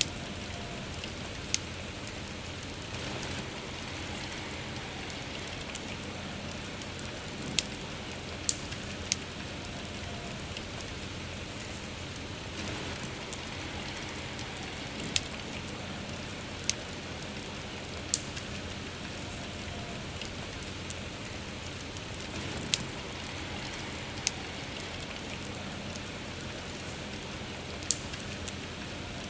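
Steady rain falling, with a campfire crackling and popping through it: sharp, irregular pops every second or two over the even hiss of the rain.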